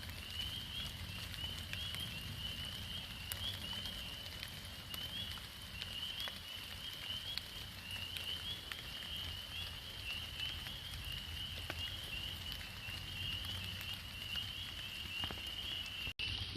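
A chorus of frogs calling in continuous high pulsing trills, with rain pattering and dripping around them.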